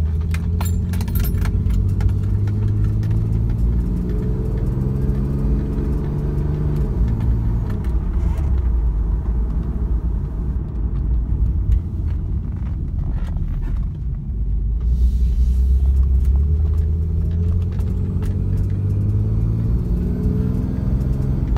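1994 Toyota Supra Twin Turbo's twin-turbo inline-six with an HKS turbo-back exhaust, heard from inside the cabin while driving gently on a cold engine. The engine note falls away about six to eight seconds in, runs low and steady, then climbs again as the car picks up speed near the end.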